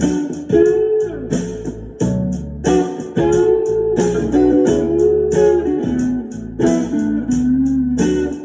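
Gretsch G5420TG hollowbody electric guitar played through a Fishman Loudbox Mini amplifier: a bluesy lead line of picked notes with string bends over a steady rhythm.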